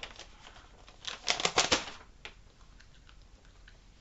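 Paper handled in the hands, crackling in a quick cluster of sharp crinkles about a second in, followed by a few faint ticks.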